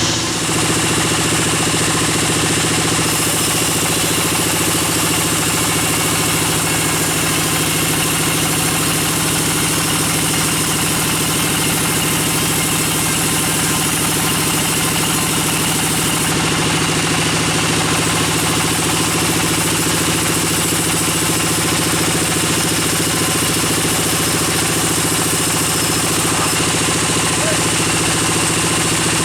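Sawmill band saw and its drive motor running steadily, a constant machine hum with no change in speed.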